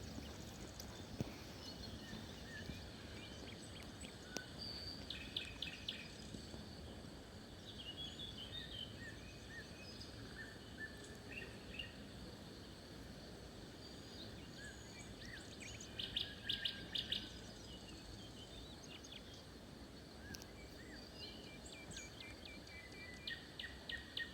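Several small birds calling and singing in a forest, scattered short chirps and brief trills over a faint low background hiss, with a loud run of quick notes about two-thirds through.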